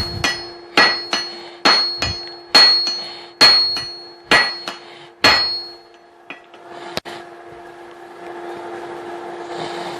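Forging hammer striking hot steel on an anvil, seven blows a little under a second apart, each with a short metallic ring. The blows stop about five seconds in.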